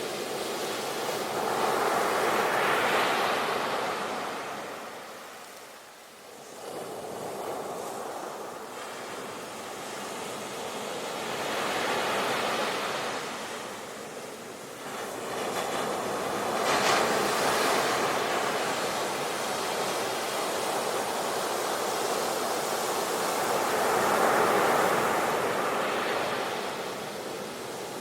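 Ocean waves breaking and washing up a shore, in about four swelling surges of hiss that rise and fade, with a lull about six seconds in and a sharper break about seventeen seconds in.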